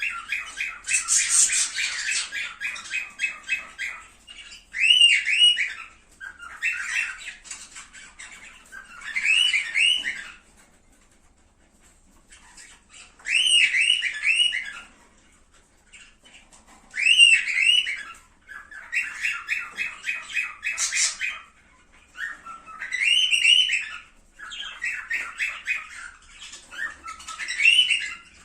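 Cockatiels calling: phrases of rapid, repeated chirping notes, each a second or two long, broken by short pauses and a longer lull about halfway through.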